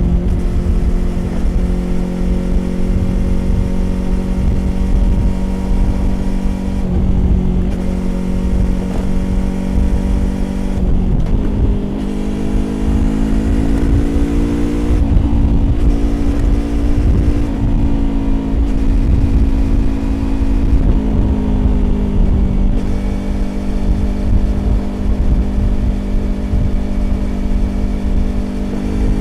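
Yamaha YZF-R25's parallel-twin engine through a Prunus aftermarket exhaust, riding at steady revs over a low wind and road rumble. The engine note steps up about a third of the way in, eases back down, and settles lower again about three-quarters of the way through.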